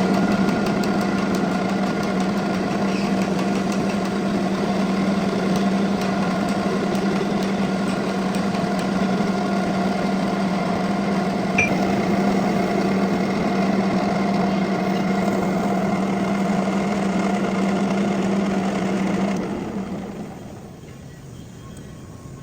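Metal lathe running steadily under power, a constant hum with a noisy whirr over it. Near the end the sound falls away to a much quieter background hum.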